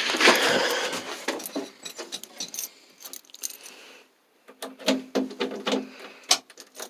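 Rustling, then a series of sharp clicks and knocks with a short quiet gap partway through: hands and keys handling the backhoe's door and controls.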